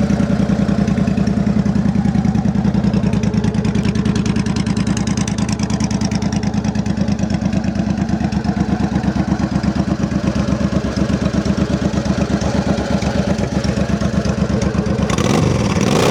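2005 Suzuki Boulevard C90's V-twin idling steadily through Cobra aftermarket exhaust pipes, with an even beat and no funny noises from the engine. Near the end the throttle is blipped once, the pitch rising and falling back clean.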